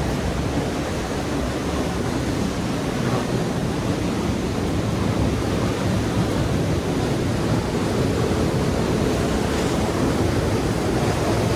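Waterfall's falling water making a steady, even rush of noise, heard from the rock recess behind the falls.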